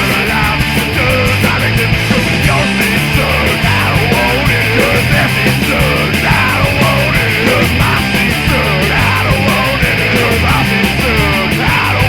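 Punk rock recording: a loud, dense band sound of electric guitar, bass and drums playing without a break.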